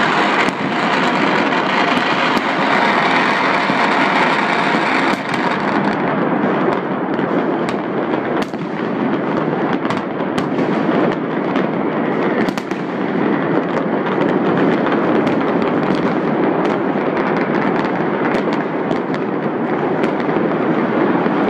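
Fireworks and firecrackers going off all around in a dense, unbroken crackle, with many sharper single bangs scattered through it.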